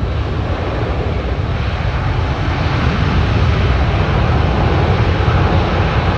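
Jet airliner engines, a loud, steady rumble and rush of noise that grows slightly louder as the aircraft moves past.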